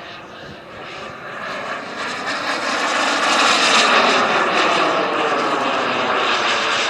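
Gas turbine engine of a radio-controlled BAE Hawk model jet making a flypast: a jet whine and rush grow louder, peak about halfway, then fade, with the pitch dropping as it goes by.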